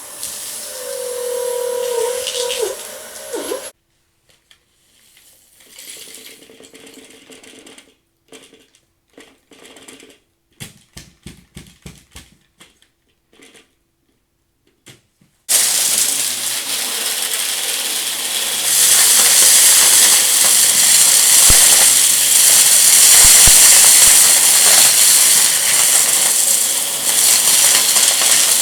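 Vacuum cleaner running, then switched off suddenly about four seconds in, followed by a stretch of light clicks and rattles. About fifteen seconds in it is switched back on and gets louder a few seconds later, with a rattle of crunchy debris being sucked up off the rug.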